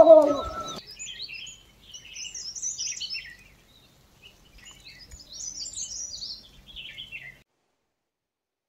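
A songbird singing two phrases of quick, high chirps and trills, each a few seconds long with a short pause between. At the very start the tail of a louder, wavering pitched sound cuts off within the first second.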